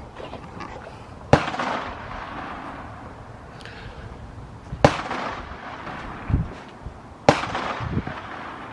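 Three single rifle shots fired a few seconds apart, each a sharp bang followed by a short echoing tail: slow, aimed fire while the sights are being zeroed.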